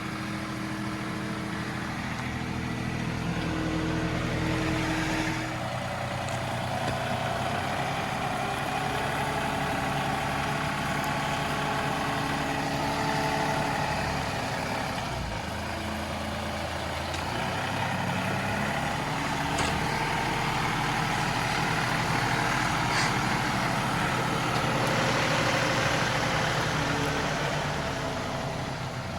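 John Deere 2038R compact tractor's three-cylinder diesel engine running steadily. Its note shifts as the load changes, and a rushing hiss swells twice, once early on and again near the end.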